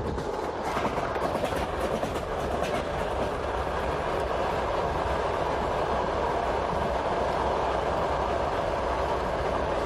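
Train running along the track, heard through an open carriage window: a steady rumble and rush of the wheels on the rails.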